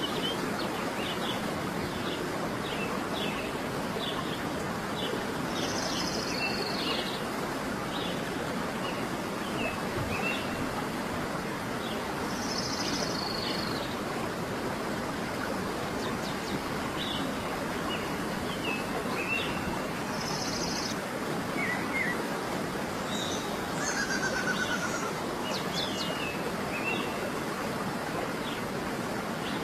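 Birds chirping and calling over a steady rushing noise, with one longer high call repeated about every seven seconds.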